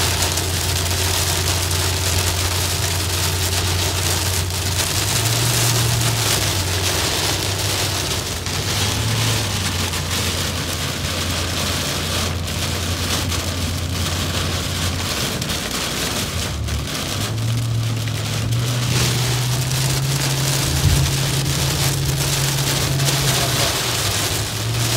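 Heavy rain pelting a car's roof and windshield, heard from inside the car, with a steady low engine and road drone underneath that shifts up and down in pitch a few times.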